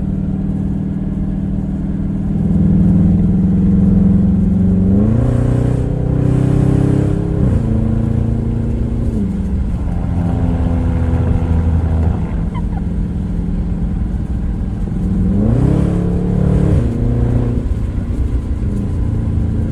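Straight-piped Dodge Charger R/T (muffler and resonator deleted), its HEMI V8 exhaust loud on a drive. The engine note climbs under acceleration about five seconds in, drops back, and climbs again about fifteen seconds in before easing off.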